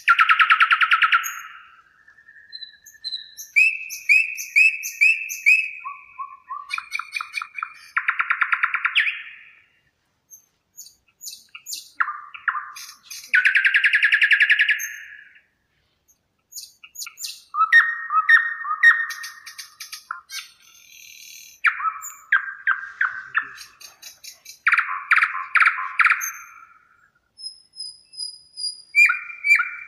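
Songbirds singing: a string of varied short phrases and rapid trills, each a second or two long, with short pauses between them.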